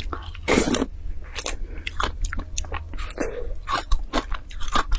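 Close-miked biting into a yellow frozen ice pop, then crunching and chewing it, with irregular crackly crunches; the largest crunch comes about half a second in.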